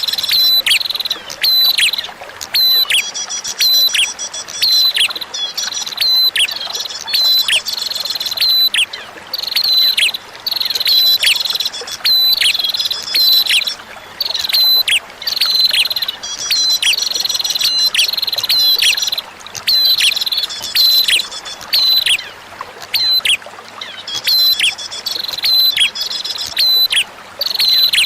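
Recorded prenjak (prinia) song: rapid series of sharp, down-slurred chirping notes in phrases a few seconds long with short breaks, over a steady background of running water.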